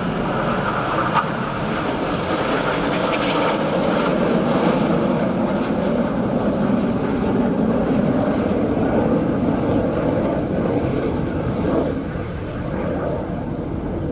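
Formation of BAE Hawk T1 jets passing, a continuous jet roar that swells through the middle and eases off near the end, its pitch sinking as they go by.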